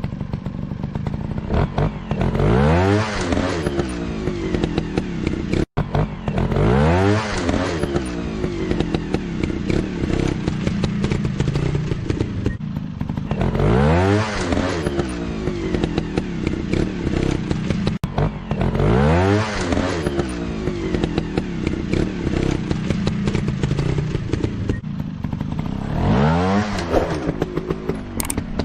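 Dirt bike engine running and revving up repeatedly, its pitch climbing about five times a few seconds apart, with the engine running between the climbs.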